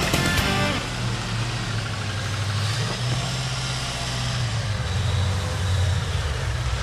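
B&M-supercharged Ford 302 V8 of an off-road 4x4 running under throttle, its pitch rising and falling. Background music cuts off about a second in.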